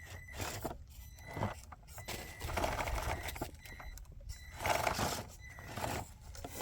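Small electric RC rock crawler working its way up rock: repeated uneven bursts of its tires scrabbling and scraping on the stone, with a faint thin motor whine that comes and goes. The truck is short of torque on its stock gearing and struggles to pull itself up.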